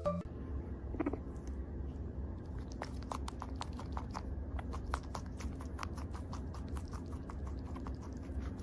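An animal chewing, heard as many quick, irregular crunching clicks over a steady low hum.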